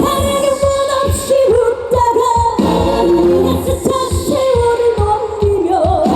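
A woman singing a trot song live with a band, her voice held in long wavering notes with vibrato over a thinned-out accompaniment with little bass.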